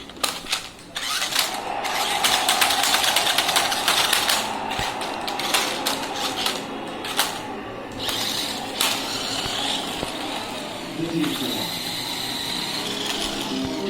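Small electric motor and plastic gears of a battery-powered toy stunt car buzzing with a rapid, dense rattle.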